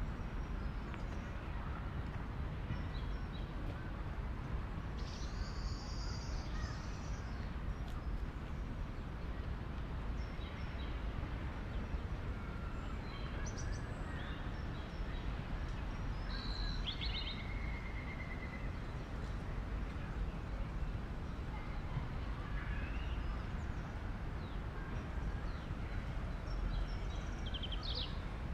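Outdoor city-park ambience: a steady low rumble of distant city traffic, with a few short bird calls and chirps breaking through now and then.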